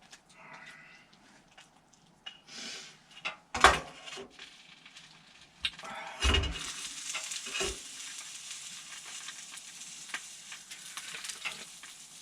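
A frying pan sizzling steadily on a hot wood stove, starting about halfway through, after a couple of knocks of the pan and utensils.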